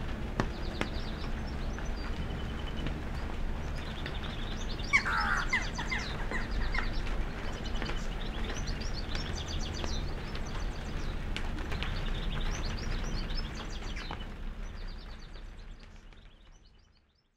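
Birds chirping in short repeated series over a steady low rumble, with a louder, lower call of quick falling notes about five seconds in. The sound fades out over the last few seconds.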